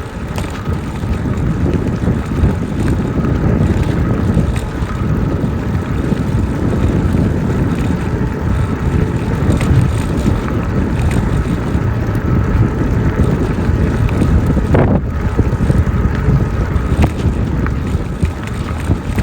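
Wind buffeting the microphone of a rider moving on an e-bike, a steady low rumble, with a faint steady high tone and a few light clicks from the ride.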